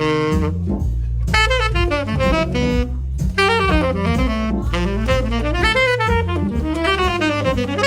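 Tenor saxophone improvising a jazz solo over a low accompaniment: quick runs of notes in phrases, with short breaks between them about a second in and about three seconds in.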